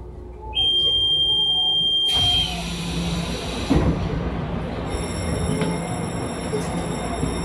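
Interior running noise of a Taiwan Railway EMU700 electric commuter train. A high, steady electronic beep sounds for about two seconds, and a loud rush of noise cuts in near its end, settling into a steady rumble.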